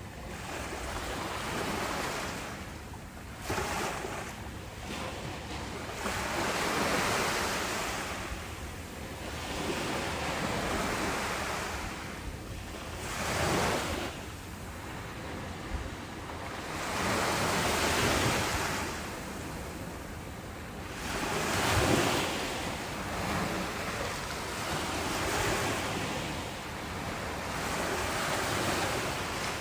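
Ocean waves breaking and washing up the shore, one swell every few seconds, with the loudest about halfway through and again about two thirds of the way in. Wind rushes across the microphone.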